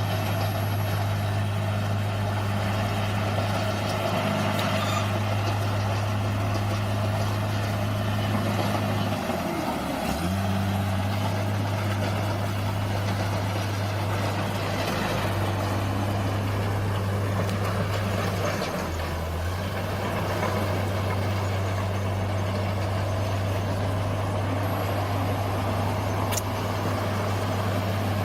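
Bulldozer's diesel engine running steadily, dipping briefly in pitch about ten seconds in, then recovering.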